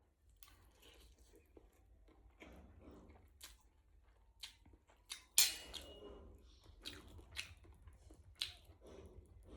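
Someone eating stir-fried noodles close to the microphone: quiet chewing and mouth noises with scattered small clicks and smacks, and one louder clink with a short ring about five and a half seconds in.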